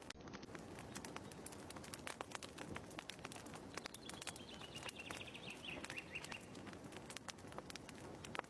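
Fireplace wood fire crackling with frequent sharp pops. About four seconds in, a bird chirps a short series of quick notes that falls in pitch.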